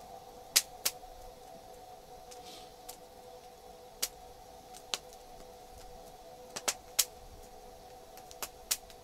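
Slow background music holding two sustained droning notes, with scattered sharp pops and crackles of a wood campfire.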